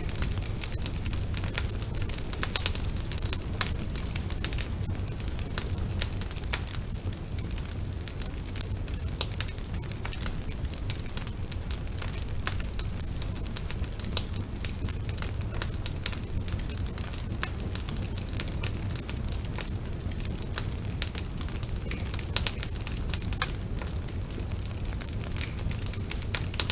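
Wood fire burning in a fireplace, with frequent irregular sharp crackles and pops over a steady low rumble.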